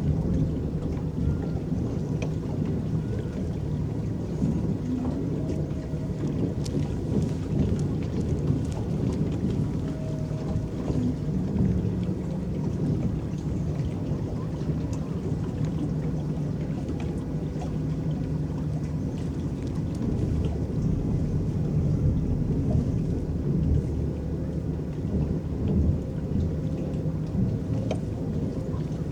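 Electric paddle boat's paddles churning the lake water in a steady low wash, with a faint hum underneath.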